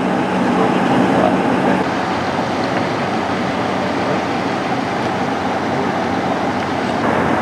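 Steady, even engine noise from a running vehicle, without breaks or knocks.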